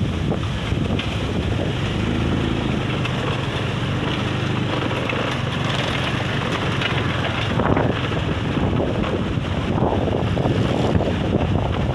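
Strong beach wind rushing and buffeting the microphone, a gale strong enough to lift sand. A low steady hum joins in for a few seconds, about two seconds in.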